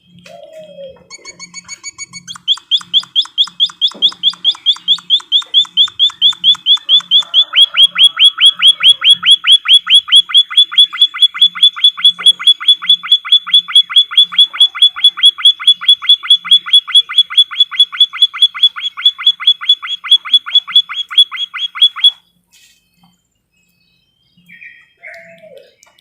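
Emprit kaji (white-headed munia) song: one long, rapid, even trill of sharp repeated notes. It begins softly about a second in, turns loud at about two and a half seconds, and stops abruptly a few seconds before the end.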